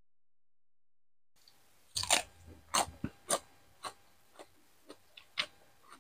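Close-miked chewing of a crunchy mouthful, starting about two seconds in, with crisp crackling chews roughly two a second that mostly grow fainter.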